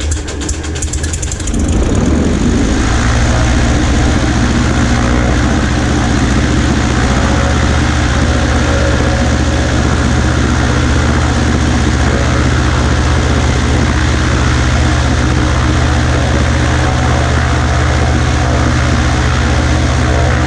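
Cessna 140A's engine catching just after starting, firing in quick strokes for the first second or two, then running steadily with the propeller turning.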